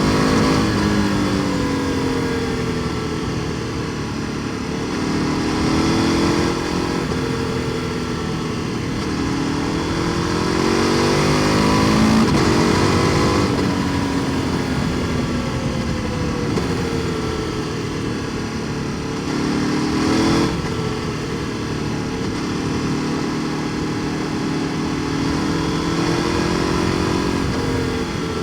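KTM 1290 Super Duke R Evo's V-twin engine through an Akrapovic exhaust, ridden on the road. The engine note rises and falls again and again as the rider accelerates and eases off, with sudden drops about twelve and twenty seconds in.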